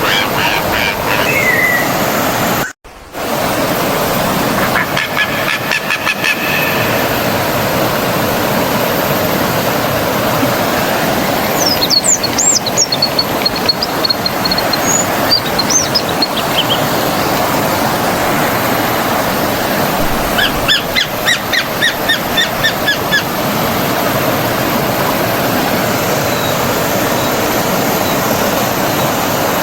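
Stream water flowing steadily, with birds chirping and calling now and then over it. The sound cuts out for a split second about three seconds in.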